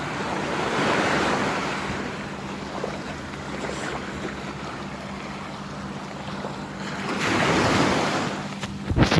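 Sea waves washing ashore, swelling twice, once about a second in and again near the end, with wind on the microphone. A sharp knock at the very end.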